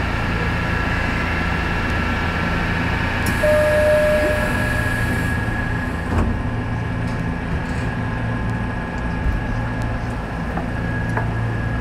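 Nishitetsu electric commuter train heard from inside the front car, running and braking to a stop, with a steady low hum and a thin high whine. A short beep and a hiss come a few seconds in, and a knock about halfway as it comes to a halt.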